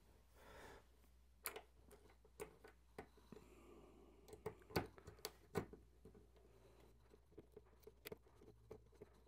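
Faint scattered clicks and taps of a metal multitool and a magnet being handled and pressed into a 3D-printed plastic magnet holder to test its fit. The loudest click comes about halfway through.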